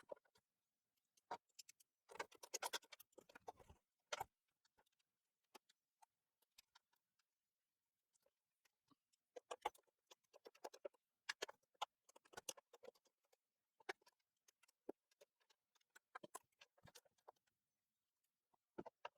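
Faint, scattered clicks and short scrapes from a PS4 Slim's parts being handled during disassembly, with a cluster of rustling a couple of seconds in and more clicks in the middle.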